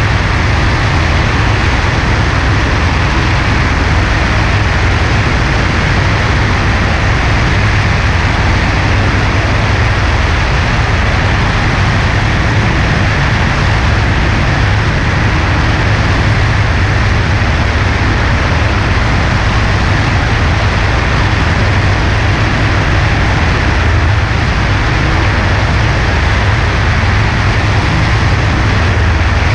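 Cessna 140A's light-aircraft piston engine and propeller running steadily, a loud, unchanging drone with a deep low hum under a broad rushing noise.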